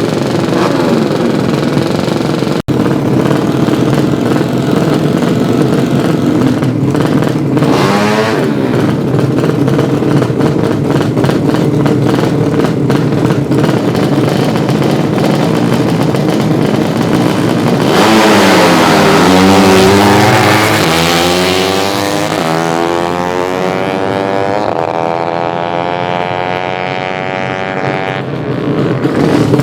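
200cc underbone racing motorcycle engines running at high revs. Past the middle, one engine's note drops and then climbs steadily for several seconds as it revs up.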